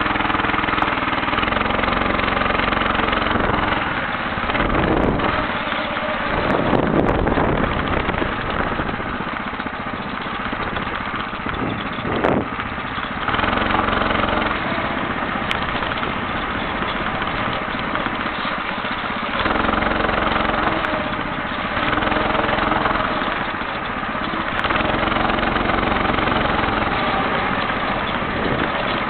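Engine of a homemade motorcycle running under way, its revs rising and falling as the throttle is opened and eased.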